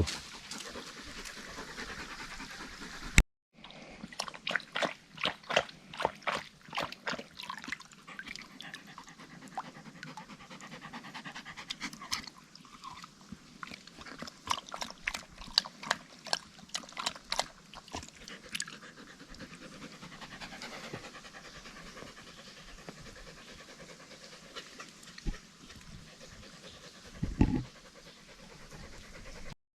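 A collie panting in a quick, even rhythm of short breaths, easing off in the second half, over a faint trickle of water.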